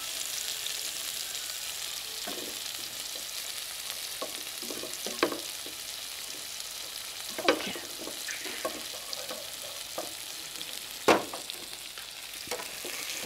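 Chicken with paprika sizzling steadily in a frying pan, with several sharp knocks and scrapes of a spatula against the pan.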